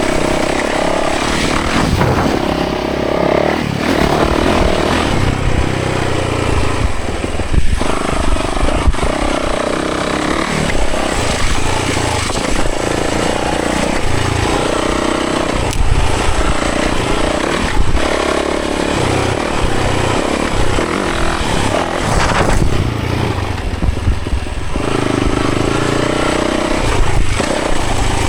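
Yamaha 450 dirt bike's four-stroke single-cylinder engine under way, its pitch rising and falling again and again as the rider accelerates and eases off, with a few sharp knocks along the way.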